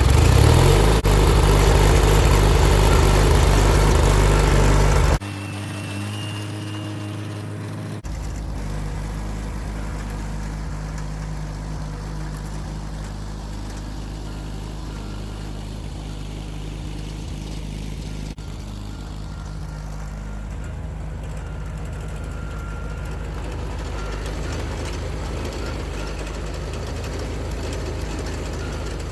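John Deere 317 garden tractor engine running loud and hard, then about five seconds in dropping suddenly to a quieter, steady run.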